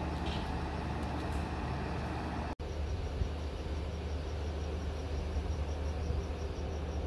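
Steady low hum of a standing diesel passenger train idling, with crickets chirping in a fast, even pulse. The sound drops out briefly about two and a half seconds in, and the chirping runs on after that.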